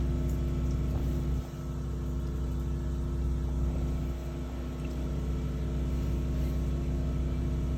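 Sewer water jetter's engine running steadily under load while it drives high-pressure water through a grease-clogged sewer line, with a short dip in level about one and a half seconds in.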